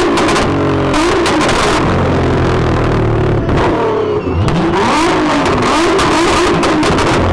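High-performance sports car engine revving hard under acceleration, its note rising and falling repeatedly. The engine drops briefly about four seconds in, then the revs sweep up again.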